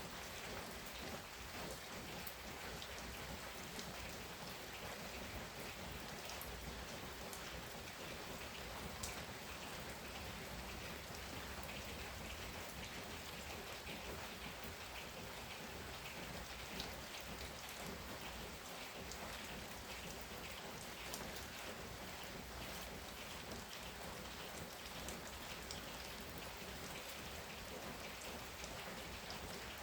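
Heavy rain pouring steadily, with many individual drops ticking on a hard surface close by.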